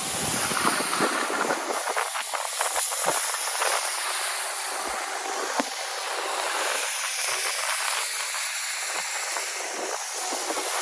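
Steady, high hiss of a snowmaking gun spraying man-made snow, with faint scattered ticks.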